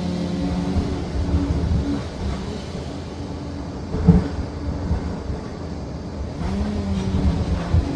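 Liebherr PR 746 crawler dozer's diesel engine running under working load. Its sound drops for a few seconds in the middle and picks up again with a rising pitch near the end. Two sharp knocks come through, one about four seconds in and one near the end.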